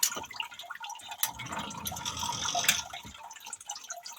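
Basement sump pump switched on by lifting its float switch, running and churning water in the pit. It stops about three seconds in, leaving faint dripping.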